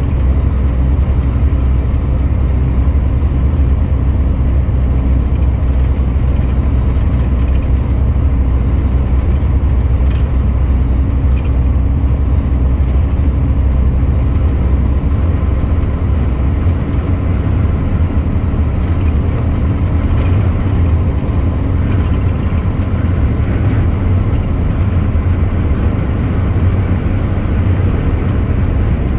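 Truck engine running steadily on the road, a continuous low hum mixed with tyre and road noise.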